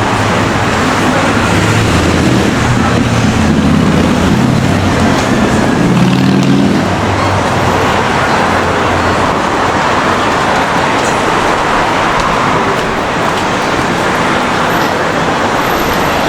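City street traffic noise. A motor vehicle's engine runs close by for the first several seconds and fades about seven seconds in, leaving a steady hiss of traffic.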